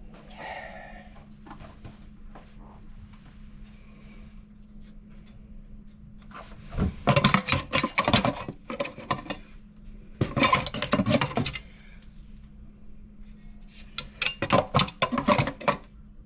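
Metal tools or fittings clattering and rattling as they are handled, in three bursts a few seconds apart over a faint steady hum.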